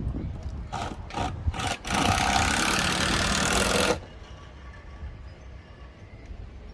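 Cordless drill driving a screw into wood: a few short trigger bursts, then a steady two-second run that stops suddenly as the screw seats.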